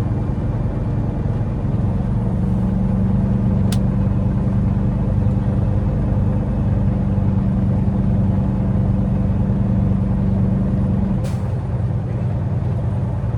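Semi truck's diesel engine running steadily, heard from inside the cab, with a sharp click a little under four seconds in and another about eleven seconds in, where a steady hum drops away.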